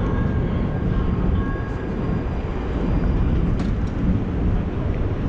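Steady low rumble of an approaching light rail train, with no distinct clicks or strikes.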